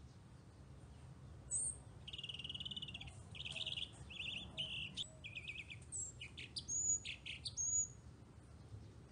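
A bird singing a varied song of rapid trills and short high chirps and whistles. It starts about one and a half seconds in and stops near the end, over faint steady background noise.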